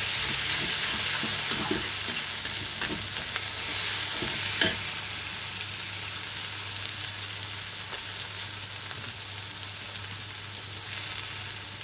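Chopped onion, garlic and green chilli sizzling in hot mustard oil in a steel kadhai, with a steel spatula scraping and tapping the pan a few times in the first five seconds, the loudest tap about four and a half seconds in. The sizzle grows gradually quieter.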